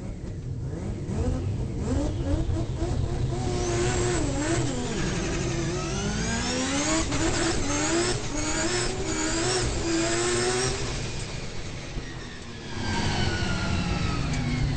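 Three-rotor 20B turbo rotary engine of a Mazda RX-7 race car pulling hard through the gears, its pitch climbing and dropping sharply at each upshift. It eases off about eleven seconds in, then pulls again near the end.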